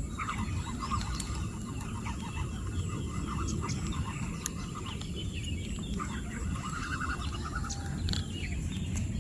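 Birds chirping and chattering in many short, quick calls, over a steady low rumble.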